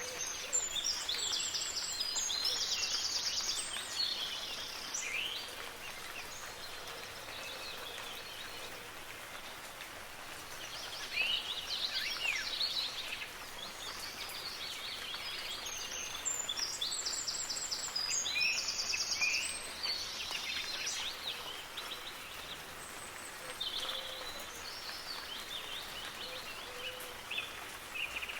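Songbirds singing and chirping in recurring phrases of quick high trills over a steady hiss of soft rain.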